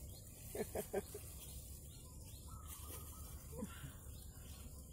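Quiet rural outdoor ambience with faint birds chirping, and a few short murmured voice sounds about half a second in.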